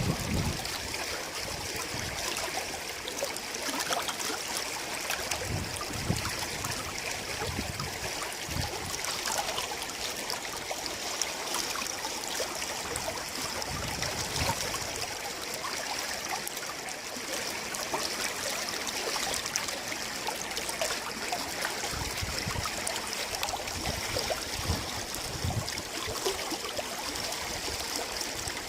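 River water flowing steadily, a stream swollen by heavy rain.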